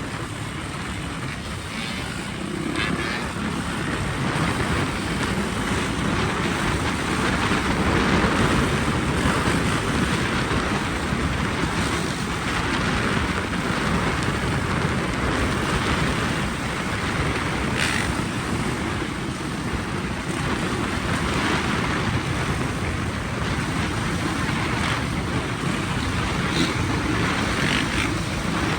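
Dirt bike ridden on the road: a steady rush of wind over the microphone mixed with engine and road noise.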